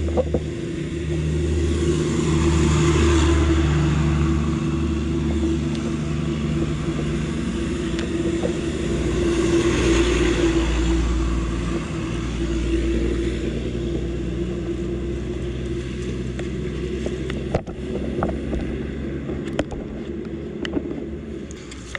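A motor vehicle engine running with a steady low hum, swelling louder twice, a couple of seconds in and again about ten seconds in, with a few sharp knocks near the end.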